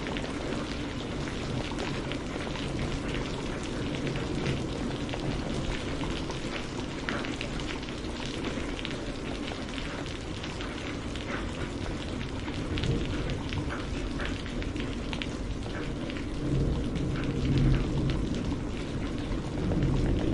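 Steady rain falling, with a dense patter of individual drops hitting a surface. Low rumbles swell up briefly twice in the last few seconds.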